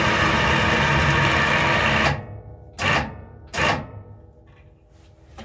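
Small electric winch motor on a lawn tractor plow lift winding the cable back onto its spool, whirring steadily, then cutting off about two seconds in; two brief bumps of the motor follow to snug the cable.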